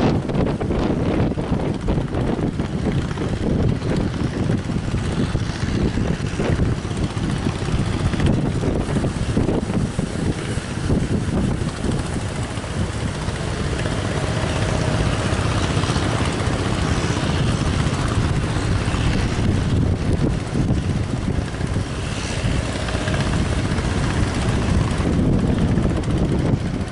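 Strong wind buffeting the microphone, a loud, steady low rumble with constant gusty flutter.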